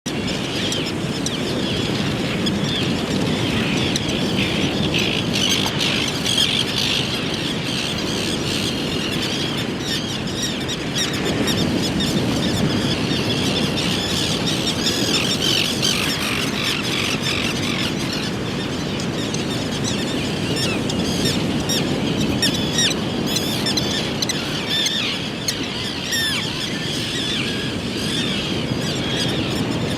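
Young bird's high, rapid squealing begging calls as it is fed, with other bird chirps, over a steady low background rumble.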